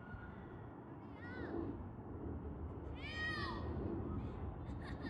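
A bird calling: a short arched cry about a second in, then a longer, louder one about three seconds in. A steady low rumble runs underneath.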